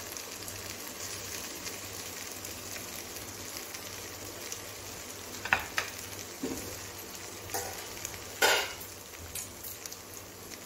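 Steady sizzling hiss of masala chicken pieces cooking in a steel pot on a gas stove. A few light knocks come from the pot, the loudest about eight and a half seconds in.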